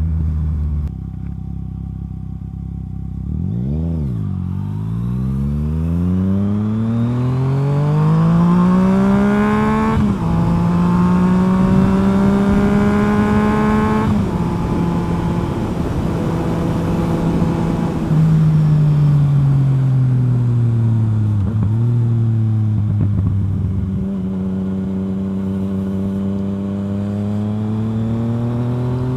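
Yamaha FZ-09's inline-three engine through a full M4 exhaust, heard while riding. The revs climb for several seconds, with two small drops in pitch at upshifts, hold steady, then fall away and climb again near the end.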